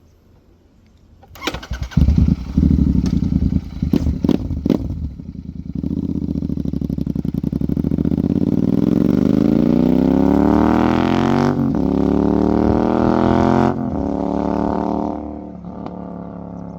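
Royal Enfield 650 parallel-twin engine breathing through an HP Racing aftermarket exhaust. It fires up about a second and a half in and gives a few sharp blips. The revs then climb slowly to a high, steady pitch with a brief dip, step down, and settle back to a lower idle near the end.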